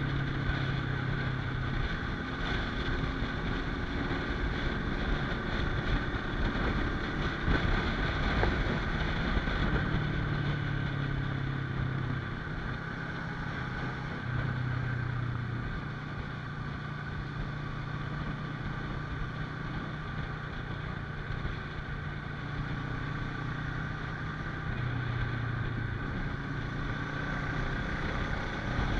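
Motorcycle engine running at a steady cruise, its note shifting a little several times, under continuous wind rush.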